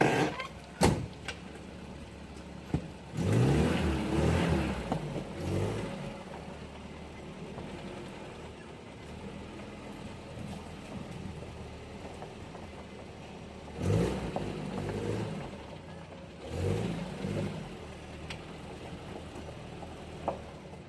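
Peugeot 504 engine running: idling steadily and revved three times, each rev rising and falling back to idle. Two sharp clicks sound within the first second.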